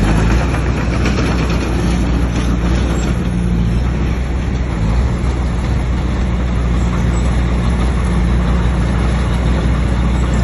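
Bulldozer's diesel engine running steadily and loudly.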